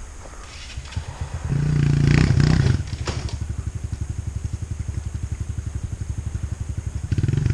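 Dirt bike engine coming to life and revving up about a second and a half in, then settling into an even, rapid putting idle before revving again near the end.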